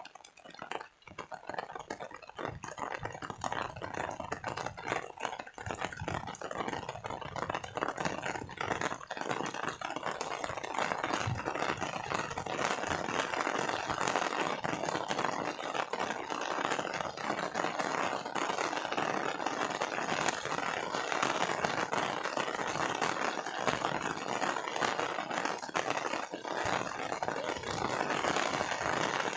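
Rain falling, a dense crackle of many drops that grows louder and steadier about ten seconds in.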